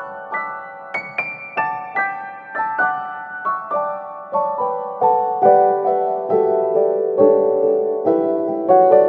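Background music: a gentle solo piano melody, notes struck at an even pace of a few per second.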